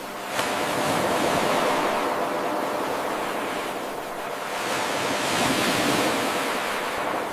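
Ocean surf washing ashore in a steady hiss, swelling and ebbing twice. About half a second in, the level jumps suddenly where the 8-second wave loop starts over.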